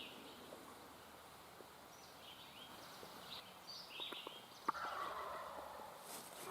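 Wild turkey gobbler gobbling about two-thirds of the way in, a single rattling call lasting about a second, just after a sharp click. Songbirds chirp throughout.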